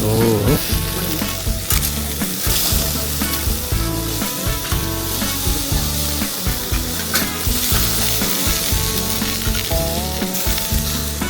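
Marinated pork sizzling on a grill over hardwood charcoal: a steady hiss with a few sharp pops.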